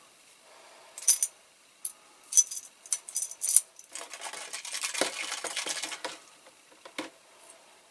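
Small diecast metal toy-car parts clinking and tapping against each other and a hard dish as they are handled during paint stripping, followed by about two seconds of scrubbing and a single sharp click near the end.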